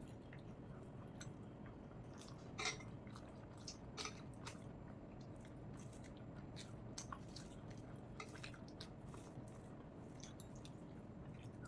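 A person chewing a mouthful of rice and taro-leaf greens, with wet mouth clicks and smacks at irregular intervals. The loudest smacks come about two and a half seconds in and again at four seconds.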